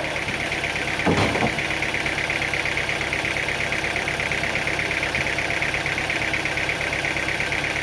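An engine running steadily at idle, with a fast even pulse, and a short knock about a second in.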